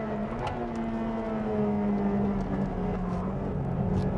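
Sports car engine running hard during a circuit race, one steady drone with little change in pitch.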